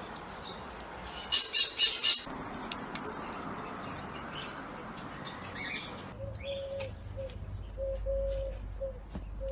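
Birds in a garden: one bird squawks four times in quick succession about a second in, loud and harsh, over a steady background hiss with faint chirping. After about six seconds the background changes to a low rumble with a steady tone that breaks off and resumes several times.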